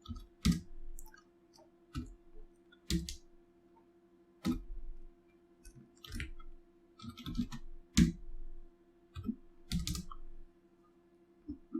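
Computer keyboard keys struck one at a time: about a dozen single keystrokes at an irregular pace, a few close together about seven seconds in, over a faint steady hum.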